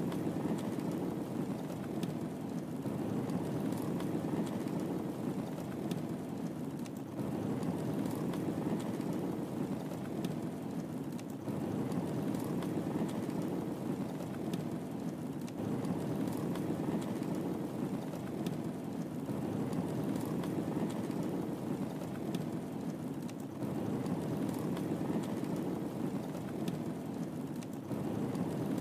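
Wood fire burning in a fireplace: a steady low rumble of flame with faint, scattered crackles and pops.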